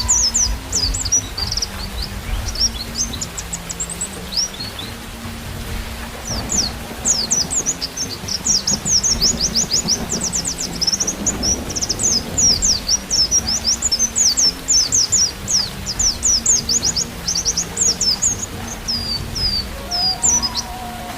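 White-eye (pleci) song: rapid, high chirping phrases in long, busy runs, over a steady rain hiss and a soft low musical drone. Held flute notes come in near the end.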